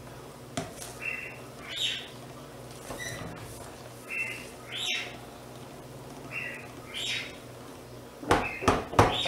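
A bird calling over and over: a short flat note followed by a higher, harsher note, the pair coming about every two seconds. Near the end, a few loud sharp knocks.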